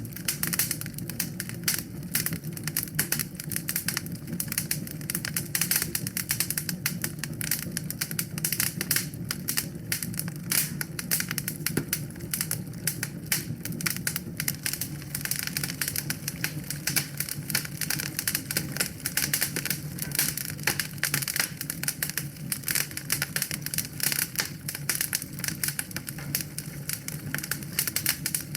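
Wood fire burning in a fireplace, crackling with dense, rapid, irregular pops and snaps over a steady low rumble of the flames.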